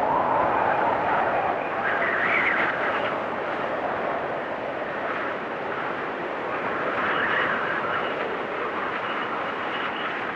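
Storm wind blowing hard and whistling: a steady rush with whistling tones that drift up and down in pitch, swelling about two seconds in and again around seven seconds.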